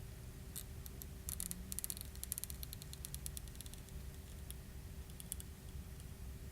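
Quick faint clicks and light crackling from hands and tools working on an opened iPhone 6 Plus while its battery glue tab is pulled, bunched in the first few seconds with a few scattered ticks later, over a steady low hum.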